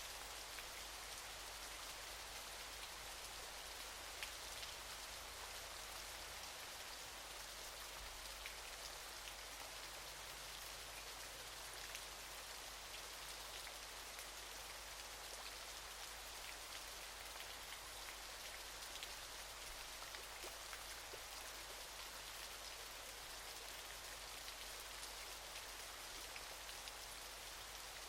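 Steady hiss of falling water, peppered with many small drop and splash ticks.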